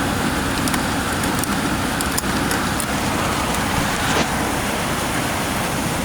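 Heavy rain pouring down steadily, with a few faint ticks of drops striking something close by.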